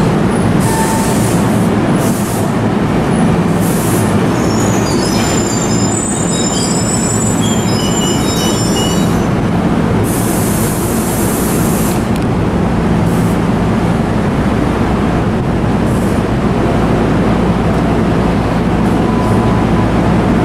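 A train running through at close range: a steady loud rumble of wheels on rail, with high-pitched wheel squeal coming and going for a few seconds near the middle.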